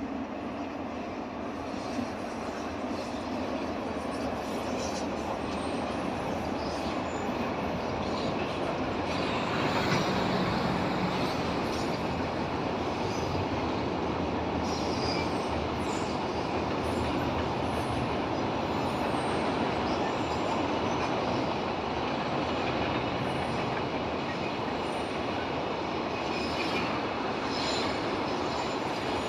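Freight train rolling over a railway bridge: a long, steady rumble of wheels on the rails, a little louder about ten seconds in.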